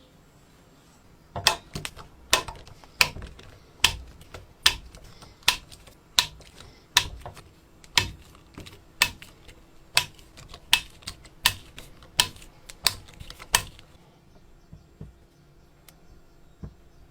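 A run of about eighteen sharp knocks or taps, roughly one to two a second and not quite evenly spaced. They start about a second and a half in and stop a few seconds before the end.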